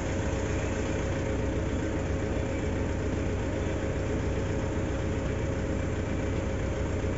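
Mitsubishi Montero's common-rail diesel engine idling steadily, with a faint steady whine over it. The engine has a misfire that sets no fault code.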